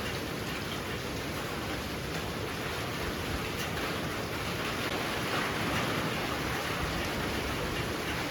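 Heavy rain pouring steadily, a dense even hiss that swells a little about halfway through.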